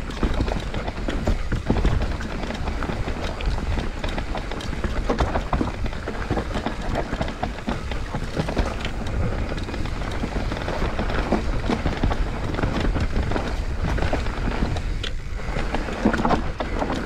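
Mountain bike riding down a dry, dusty dirt trail: tyres crackling over loose soil and the bike rattling over bumps, with a steady wind rumble on the microphone.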